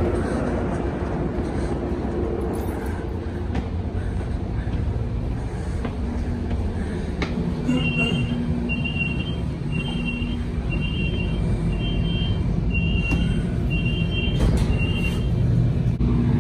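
Steady low rumble of an NCTD commuter train, with the passenger car's door warning sounding a high two-tone beep about once a second, around eight times, starting about eight seconds in.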